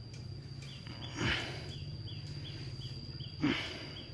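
Rural outdoor ambience: insects give a steady high whine and a short chirp repeating about three times a second. Two short, louder animal sounds falling in pitch come about a second in and near the end.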